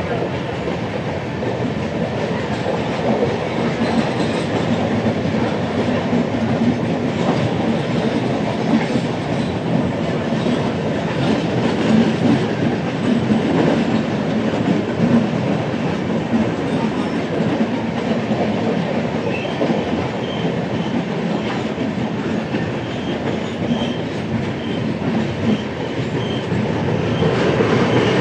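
The 12833 Ahmedabad–Howrah Superfast Express running at speed, its wheels clattering steadily over the rail joints.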